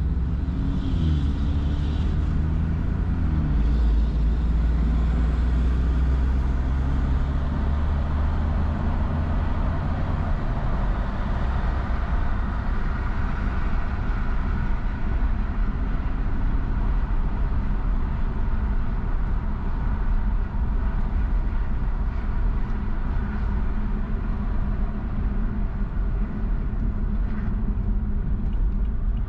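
A car driving at a steady pace, heard from inside the cabin: a low engine hum under steady tyre and road noise, with the engine pitch shifting a little in the first few seconds.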